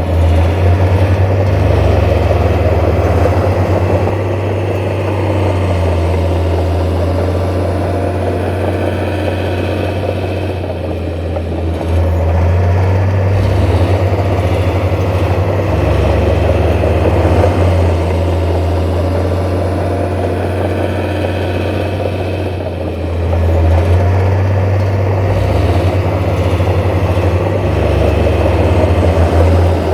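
Heavy diesel engine of earthmoving machinery running continuously with a deep low drone, swelling and easing under changing load.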